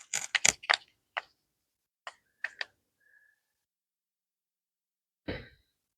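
Sharp clicks as a Toro mower's recoil starter pulley is turned by hand against its spring: a quick run of clicks in the first second, then a few scattered single clicks.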